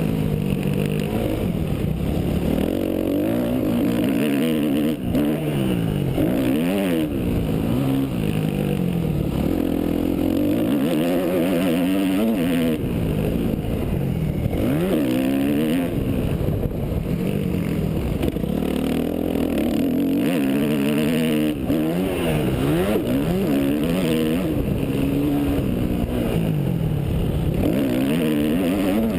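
Yamaha YZ250F motocross bike's four-stroke single-cylinder engine revving hard, its pitch climbing and dropping every second or two as the throttle is opened and shut through the gears on the track.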